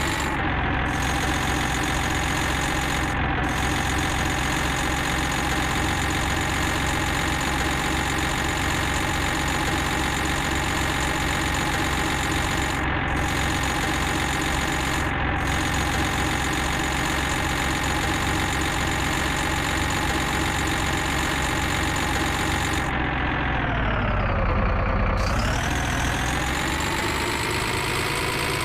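Heavy vehicle engine running steadily at idle. Near the end its pitch sags for a couple of seconds, with a slight swell in loudness, and then comes back up.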